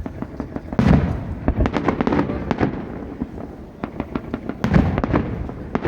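Aerial fireworks shells bursting: a deep boom about a second in and another near the end, each followed by a quick run of crackling pops.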